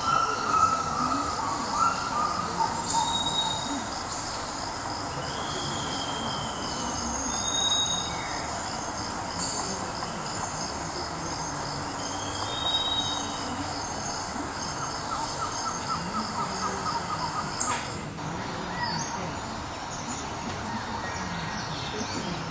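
Outdoor ambience of birds calling in short, high whistles over a steady background hiss.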